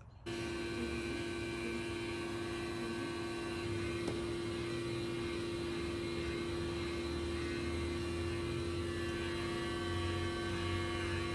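Electric motor of a pet grooming vacuum running with a steady hum, switched on just after the start and cut off at the end.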